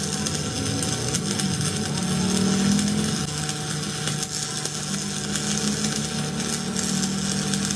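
A steady low mechanical hum of a running machine, with a continuous background of noise and no distinct strikes or breaks.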